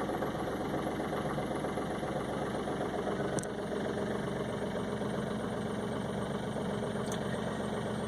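Smart Fortwo CDI's three-cylinder turbo-diesel idling steadily moments after a cold start in −19 °C frost. The engine is still very cold, and its cold running is plainly audible.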